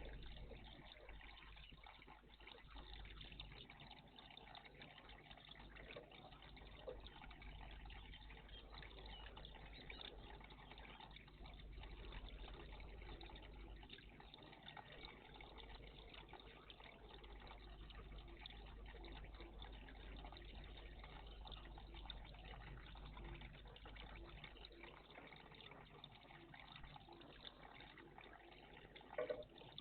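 Faint, steady trickle of running water in a garden bird bath, with one brief louder sound near the end.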